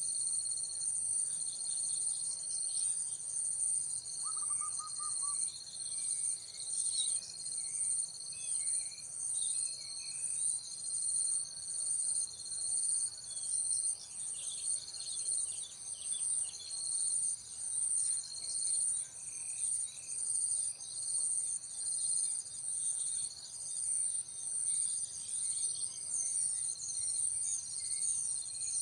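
Steady high-pitched insect chorus that swells and fades about once every second or so, with scattered short bird chirps.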